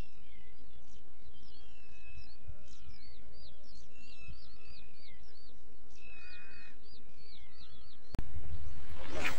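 Wild birds calling over a low, steady background rumble: runs of short, quick high chirps and a few longer slurred whistles. About eight seconds in, the sound cuts suddenly to a louder, steady rushing noise.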